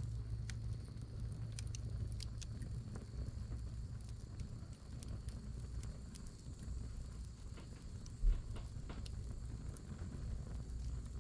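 Firewood burning, crackling with scattered sharp pops over a steady low rumble. A single dull low thump comes about eight seconds in.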